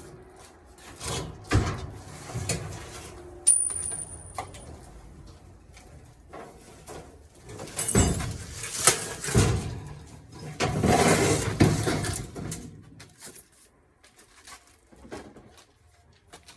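Irregular metal clanks, knocks and scraping as a washing machine is handled and taken apart for scrap, with one sharp clank about three and a half seconds in that leaves a brief high ring. Longer scraping stretches come in the middle, and it goes quieter near the end.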